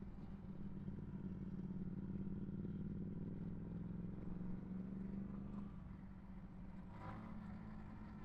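Yamaha MT-125's single-cylinder four-stroke engine running steadily while riding, easing off a little past the middle, with a short brief noise about seven seconds in.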